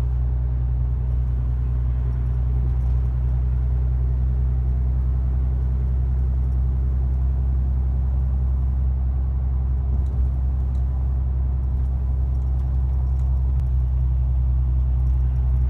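Ram 2500 diesel pickup running steadily down the road, a constant low drone with no change in pitch.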